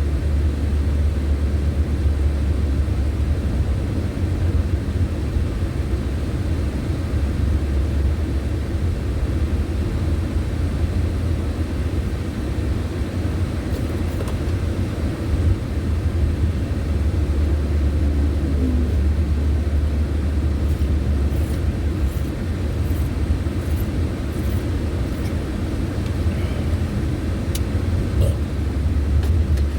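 Steady low road and engine rumble of a car driving, heard from a moving vehicle. About two-thirds of the way through, a run of faint, evenly spaced ticks, about two a second, lasts several seconds.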